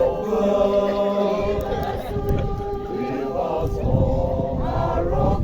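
A group of voices singing together in harmony, holding long notes.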